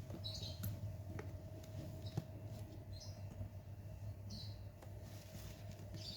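Short high bird chirps repeating every second or so over a steady low hum, with a few sharp clicks, the loudest about two seconds in.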